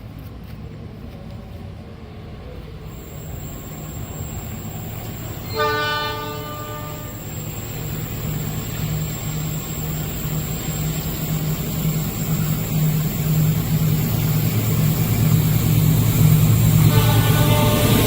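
An approaching train's locomotive sounds its horn, a chord of about a second and a half, about five and a half seconds in, and again near the end. Under it a low engine drone grows steadily louder as the train nears.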